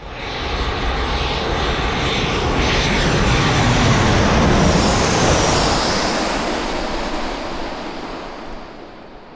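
Boeing 737 jet airliner passing close on its landing run, the engine noise swelling to a peak about halfway through and then fading away. A high engine whine falls in pitch as the jet goes by.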